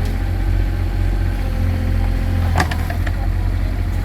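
Mini excavator engine running at a steady idle-like hum as the digger is worked, with one short knock about two and a half seconds in.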